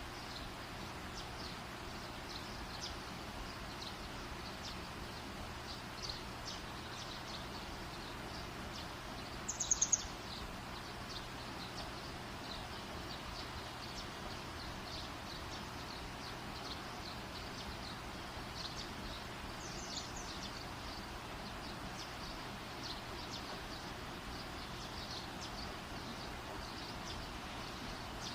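Outdoor night ambience: a steady hiss with many short, high chirps throughout, and a louder brief chirping call about ten seconds in.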